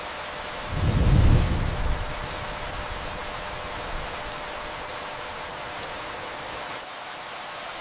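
Steady rain hiss with a single low roll of thunder. The thunder comes in about a second in, swells and fades out within a second or so, and the rain carries on evenly.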